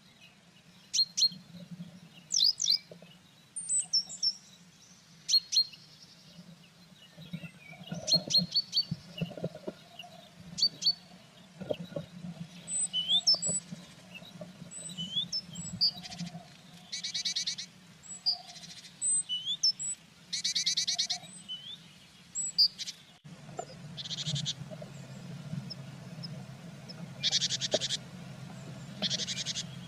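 Small songbirds calling and singing, with many short high chirps and several quick trills about a second long in the second half. A steady low hum runs underneath.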